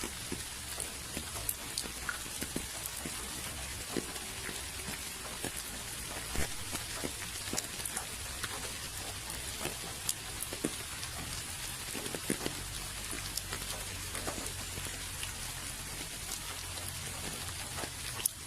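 Steady rain falling: an even hiss with many individual drops tapping sharply at irregular moments, over a low steady rumble.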